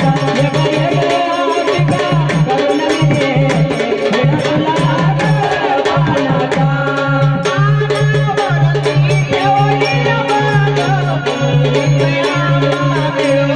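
Marathi Waghya devotional folk music: harmonium melody over steady drone tones, with sambal drums keeping a continuous beat.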